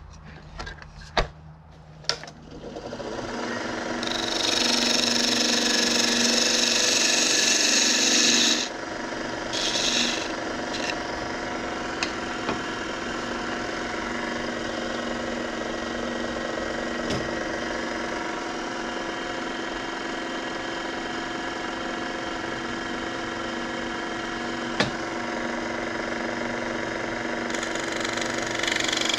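A wood lathe switched on after a couple of clicks, spinning up over about two seconds and then running steadily. A turning tool scrapes loudly against the spinning fatwood for about four seconds, then more briefly around the tenth second, with a few light knocks later on.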